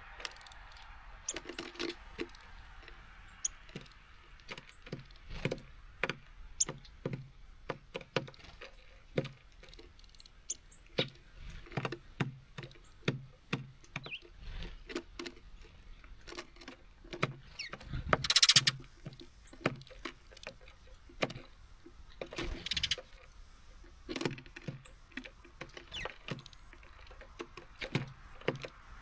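Small songbirds pecking at and hopping about on a seed feeder close to the microphone: irregular sharp taps and clicks of beaks and feet on seeds and feeder, with a louder scuffling rustle twice.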